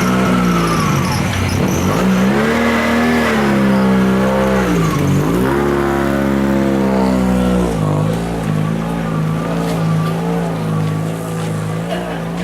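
A Toyota Corolla offroad racing car's engine running hard: the revs climb and then drop sharply about four times, as at gear changes or lifts off the throttle. From about eight seconds in it holds a fairly steady note.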